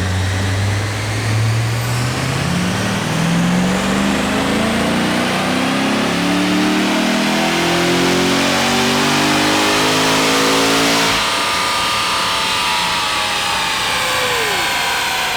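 The 7.0-litre LS7 V8 of a stock-exhaust C6 Corvette Z06 making a wide-open-throttle baseline pull on a chassis dyno. Its pitch rises steadily for about ten seconds, then drops as the throttle is lifted and the engine winds down.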